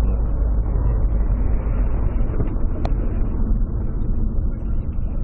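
Steady low rumble of a car driving, engine and road noise heard from inside the vehicle, with a single short click near the middle.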